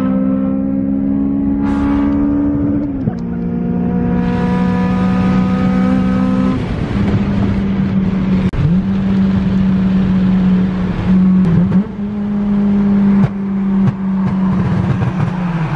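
Car engine accelerating through the gears: its pitch climbs steadily, drops at an upshift about three seconds in and again about six and a half seconds in, then holds at a steady cruise.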